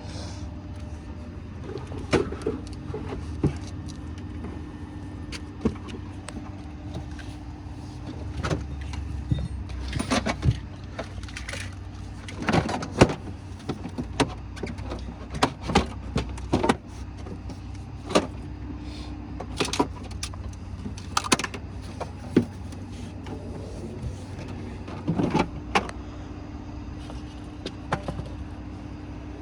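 Tow truck engine running steadily, with scattered metal clanks and knocks from the towing gear as the car is hooked up and loaded.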